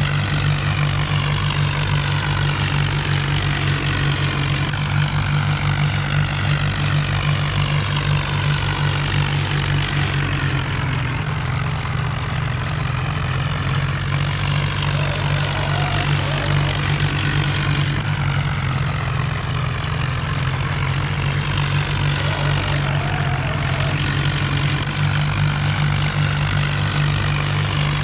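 Farm tractor's diesel engine running steadily with a constant low engine note. The higher hiss above it thins out for a few seconds about ten seconds in and again near eighteen seconds.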